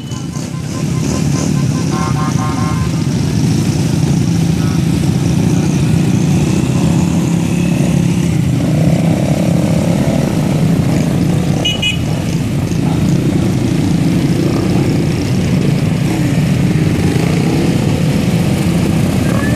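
Motorcycles riding in a group, engines running steadily under road and wind noise, with two short beeps about 2 and 12 seconds in. A siren begins to rise at the very end.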